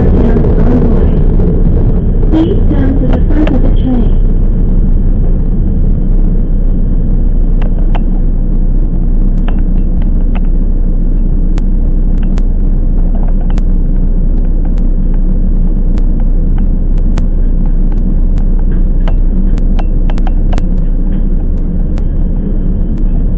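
Steady low rumble of a Toyama Chiho Railway 10030 series electric train running on the rails, with scattered sharp clicks. Right at the end, a motor whine starts rising in pitch as the train speeds up.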